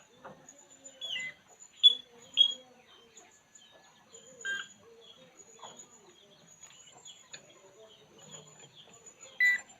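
A puling bird giving short, sharp chirps, about five in all, with the loudest two close together about two seconds in and another near the end. A steady, faint high buzz of insects runs underneath.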